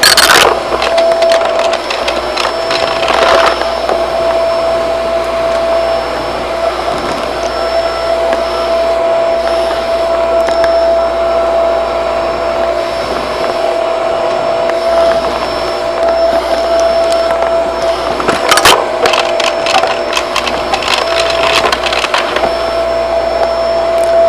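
Shark vacuum cleaner running with a steady motor whine, broken by a few short bursts of rattling clatter as debris is picked up: near the start, about three seconds in, and twice more near the end.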